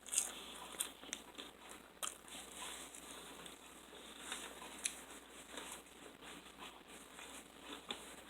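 Faint eating sounds of someone working through sauce-covered turkey wings: soft chewing and mouth smacks, with scattered small clicks.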